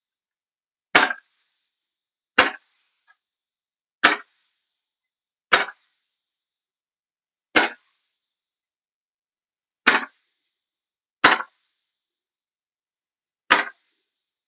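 Fireworks going off in a series: eight sharp bangs, each about one and a half to two seconds apart, each with a short hiss after it.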